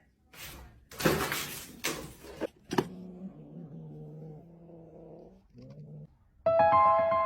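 A cat calling: a few short noisy bursts, then one long, low drawn-out cry and a brief second one. About six and a half seconds in, a loud bright chime with several ringing tones starts.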